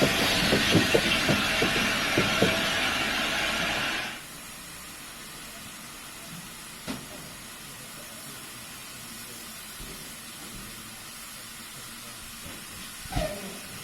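A train running past close by, with a run of sharp wheel clicks over rail joints; about four seconds in it cuts off abruptly to a quieter steady hiss of steam, with a faint knock or two.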